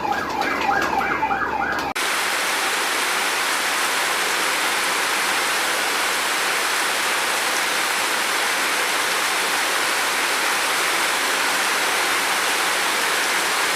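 Heavy rain falling, a steady even hiss that starts abruptly about two seconds in. Before it, a rapidly repeated rising-and-falling call, about four sweeps a second.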